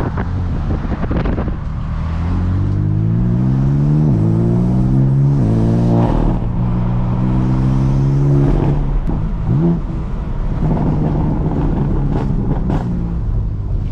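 BMW M4 CS's twin-turbo straight-six accelerating hard, its pitch climbing and then dropping sharply at several upshifts, holding steady and then falling away about nine seconds in, with a short rev blip just after. A steady hiss of tyres on wet road runs underneath.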